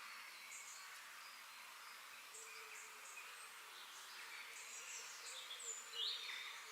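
Nature ambience: a steady hiss with scattered short, high chirps and calls of wild birds and insects, one louder call about six seconds in.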